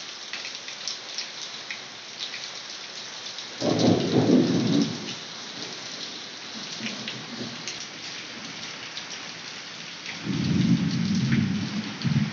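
Heavy rain with a steady hiss and pattering drops as water streams off a roof edge, and two low rumbles of thunder, one about four seconds in and a longer one near the end.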